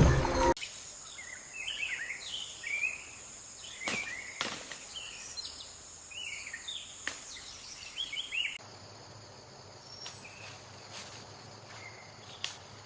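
Nature ambience of scattered short bird chirps over a steady high insect buzz, with a few sharp clicks. About eight and a half seconds in, the chirps stop and a quieter, steady insect hum with occasional clicks carries on.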